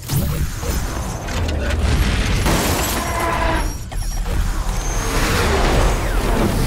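Layered sci-fi battle sound effects for a giant transforming robot: cannon blasts and booms over mechanical whirring and clanking, dense and continuous with a heavy low rumble, briefly dipping about four seconds in.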